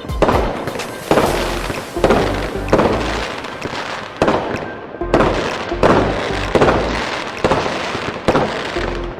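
Fireworks exploding in a run of booms, roughly one a second, each fading out before the next, with music playing underneath.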